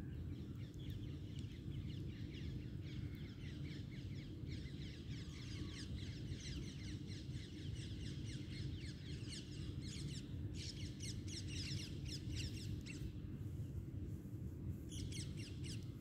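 Birds chirping busily in trees: many quick, high, overlapping chirps that stop about three seconds before the end and return briefly just before it ends, over a steady low hum.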